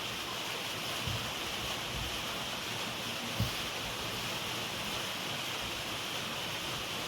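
Steady hiss of heavy rain falling, with one short low thump about three and a half seconds in.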